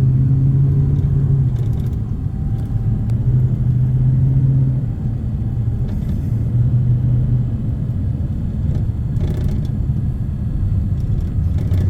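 A steady low rumble that swells and eases every few seconds, with a few faint clicks.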